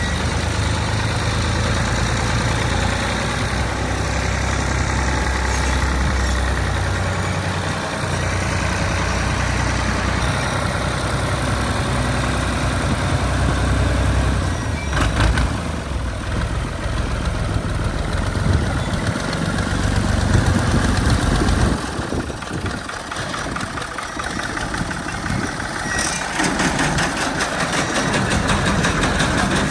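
Diesel engine of a 65 hp Al-Ghazi tractor running steadily with a low hum. The sound changes about two-thirds of the way through, turning noisier with a fast, even rattle near the end.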